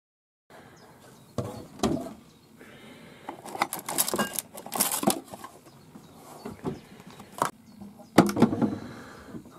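Handling noises: a run of sharp clicks and knocks with rustling between them, the loudest near the middle and again near the end.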